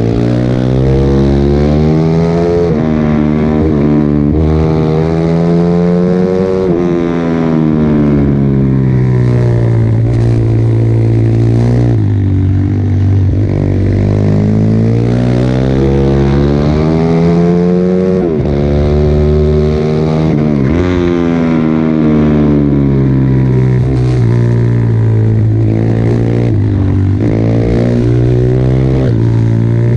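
Pit bike engine at racing pace, revving up through the gears with sharp drops in pitch at each shift, then falling away as it slows before climbing again, several times over.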